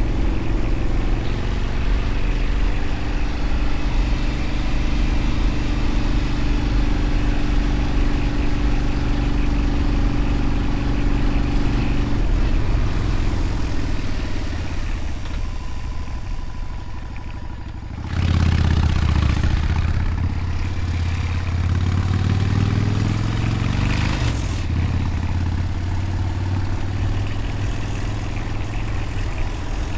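Motorcycle engine running under way at a steady note, then its pitch falling and the sound easing off as the bike slows about twelve seconds in. About eighteen seconds in it turns suddenly louder and the pitch climbs as the bike accelerates, then settles into a steady run.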